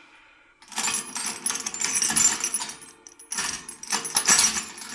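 Stainless steel parts of a large-parrot activity toy clinking and rattling against each other as a turning piece is moved by hand, in two spells of about two seconds each.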